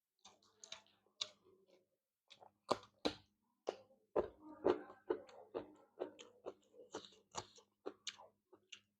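Close-miked chewing, with irregular wet lip smacks and mouth clicks of a person eating rice and curry.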